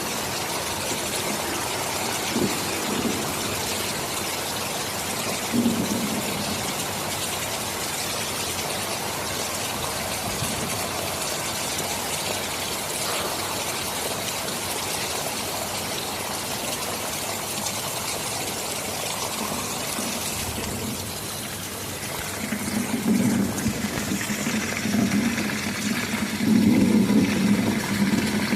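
Heavy rain falling steadily, with low rumbles of thunder swelling up twice near the end.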